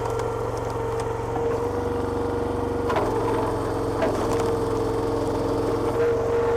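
Small petrol engine of a homemade hydraulic log splitter running steadily with a steady whine, with a few sharp cracks of wood splitting about three, four and six seconds in.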